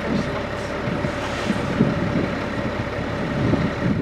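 A vehicle's engine running steadily, with a constant hum and uneven low rumbling underneath.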